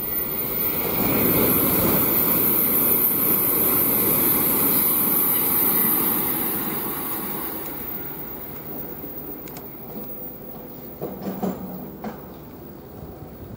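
N700 series 7000 Shinkansen train passing at speed: a broad rush of wheel and air noise that swells over the first couple of seconds, holds for several seconds, then fades away.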